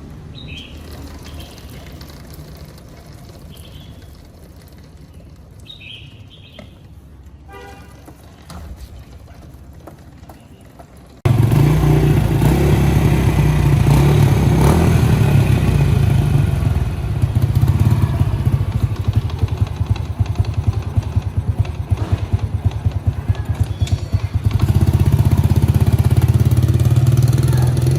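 Restored underbone motorcycle's small engine running loudly and steadily; it cuts in suddenly about eleven seconds in, after a quieter stretch with a few faint bird chirps.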